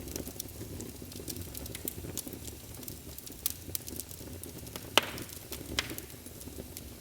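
Wood fire burning in a fireplace: a steady low rumble of flames with scattered crackles and a sharp pop about five seconds in.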